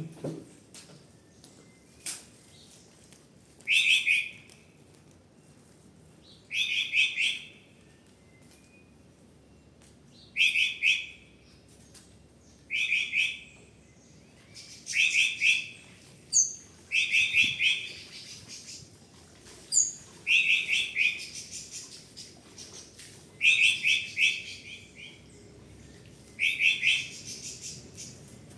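A songbird repeating a short, loud, trilled song phrase about every two to three seconds, with a few thin high call notes in between.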